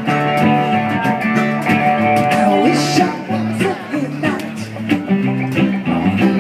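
Live acoustic band playing an instrumental passage: guitar with mandolin and hand-drum percussion, held notes over regular drum strikes.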